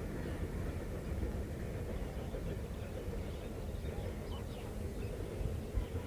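Coal freight train rolling through a station, a steady low rumble.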